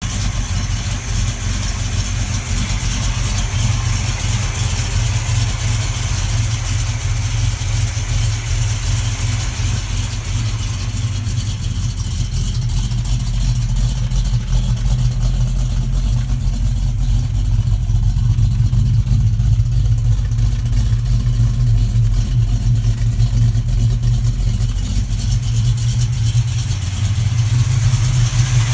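Cammed Mopar 318 small-block V8 in a Plymouth Fury idling cold with a lopey, uneven exhaust note from its aftermarket camshaft and headers.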